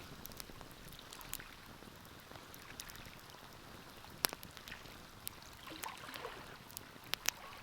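Wood fire crackling in a fireplace: scattered sharp pops and ticks over a soft, steady hiss, with louder pops about four seconds in and near the end.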